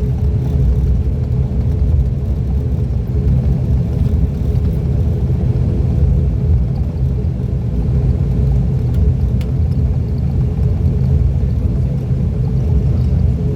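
Cabin drone of an ATR 42-600's twin turboprop engines and propellers, running steadily with a low rumble and an even hum that doesn't change in pitch.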